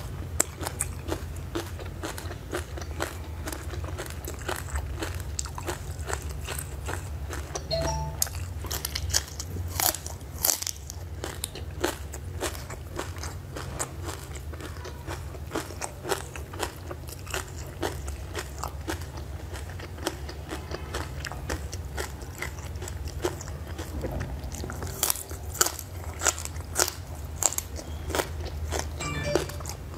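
Close-up crunching and chewing as a person eats crisp chili-coated roots by hand: a quick run of sharp crunches with busier stretches about eight seconds in and again near the end, over a steady low hum.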